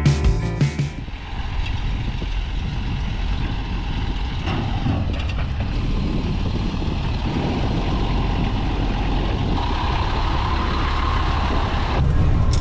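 Background music cutting off about a second in, then a heavy vehicle's engine running steadily with a low rumble.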